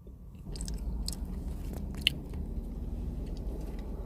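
Close-up chewing and biting of a burger and fries, with short crunchy clicks. A low steady rumble comes up about half a second in, and there is one sharp click about two seconds in.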